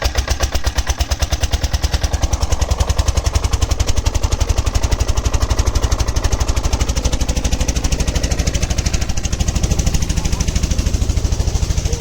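Stationary diesel oil engine running steadily, its exhaust beats coming as an even, rapid chug of about ten a second.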